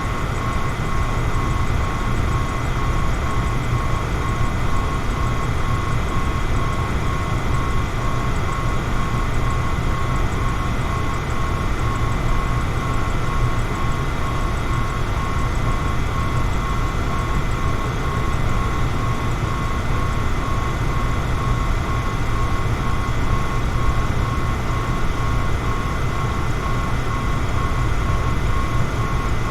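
Electric fan running steadily: an even rush of air noise, heaviest in the low end, with a thin steady tone above it.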